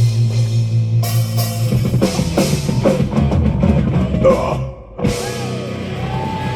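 Live metal band finishing a song: a held chord under a run of drum fills, a brief break just before five seconds in, then sustained guitar tones ringing on.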